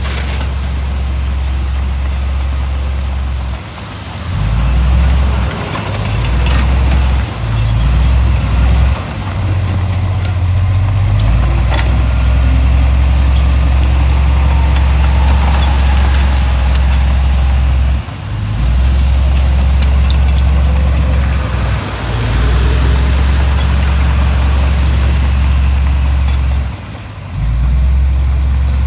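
Heavy diesel engine of earthmoving machinery running hard, a loud low drone that drops away briefly several times and comes back as the load and throttle change.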